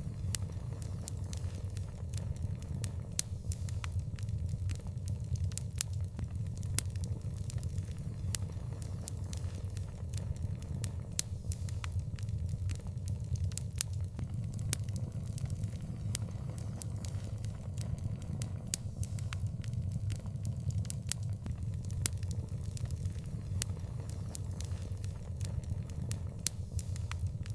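Wood fire burning with a steady low rumble and frequent sharp crackles and pops scattered throughout.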